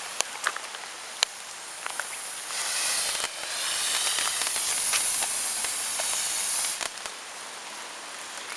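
Small 'Smile Pagoda' ground firework burning with a steady hiss of sparks and scattered sharp crackles. The hiss swells about two and a half seconds in and drops back about seven seconds in.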